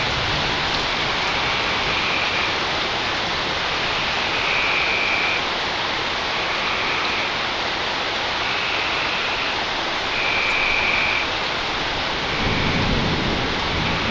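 Steady rain falling in a thunderstorm, with a low rumble of thunder coming in near the end.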